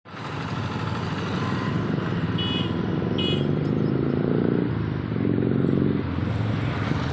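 A motor vehicle's engine running, its pitch rising and falling, with two short high chirps about a third of the way in.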